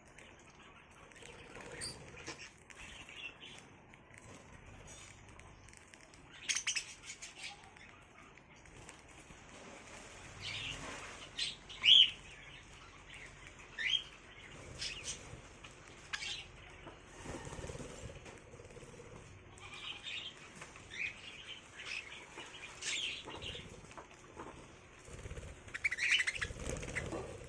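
Small kept birds chirping in short scattered calls and sweeps, with a few brief bursts of wing-flapping and rustling between them.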